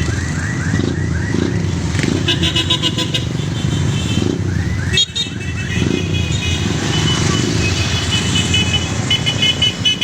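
Many motorcycle and tricycle engines running together in a moving group ride. High, pulsing horn beeps sound on and off from about two seconds in, and a fast repeating warbling tone comes near the start and again around the middle.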